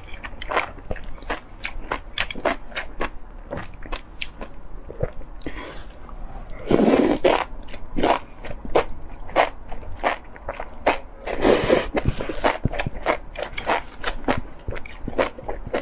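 Close-miked eating of spicy enoki mushrooms: steady wet chewing and biting with many quick clicks. Twice, about seven and eleven seconds in, there is a longer, louder slurp.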